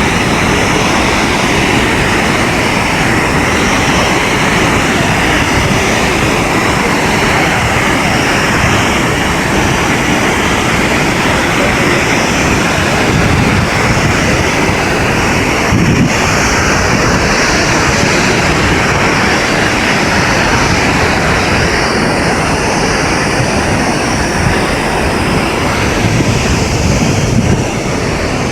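Steady rushing roar of a large waterfall, Multnomah Falls, its water crashing down without letup.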